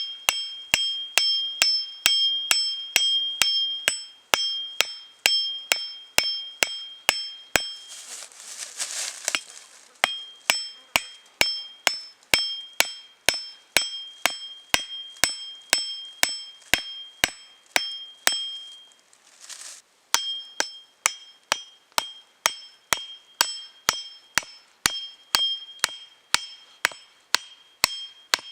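Hammer striking metal in a steady run of about two blows a second, each blow ringing. The run breaks twice for a second or so, with rustling in the gaps.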